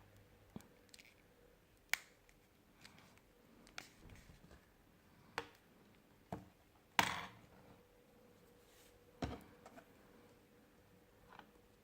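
Small plastic and metal clicks and taps from handling a smartphone and small repair tools on a workbench during a screen replacement. About eight irregular clicks, with one louder knock about seven seconds in.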